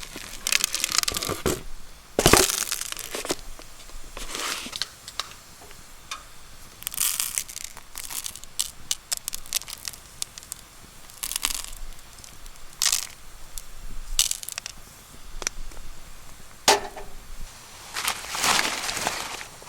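Irregular crinkling and crunching handling noises in a dozen or so separate bursts of a second or less, with short quiet gaps between them.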